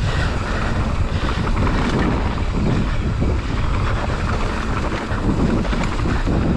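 Wind rushing over the microphone of a rider-mounted camera, mixed with the steady rumble and rattle of a mountain bike rolling fast over a dirt trail.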